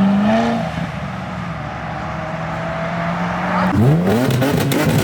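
Car engine revving hard as it pulls away, then easing to a steady drone as it cruises past. Near the end it revs up sharply again, with crackles.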